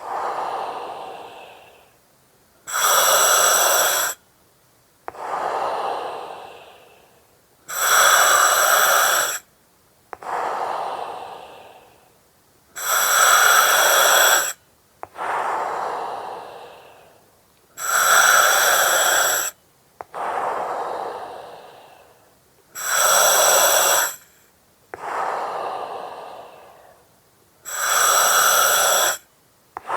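A person breathing slowly through an oxygen mask, in a regular cycle about every five seconds. Each cycle has a loud steady hiss of gas through the mask's regulator, about a second and a half long, starting and stopping sharply, then a softer breath that starts with a click and fades away.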